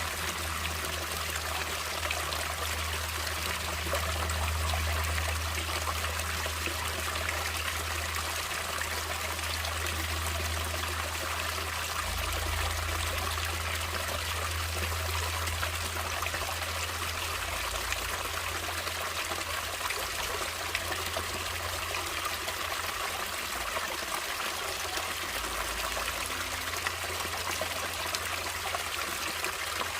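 Natural running water in a stream, trickling and splashing steadily without a break, with a low rumble underneath.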